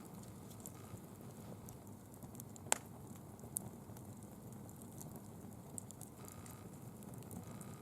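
Small bonfire of fallen leaves burning with a faint steady rush and light crackling, and a sharp pop a little under three seconds in and a smaller one about a second later.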